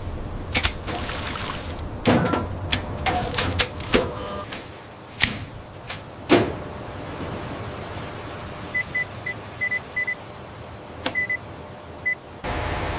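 A run of sharp clicks and knocks, then short high electronic beeps in quick little groups. Near the end a steady hiss cuts in suddenly.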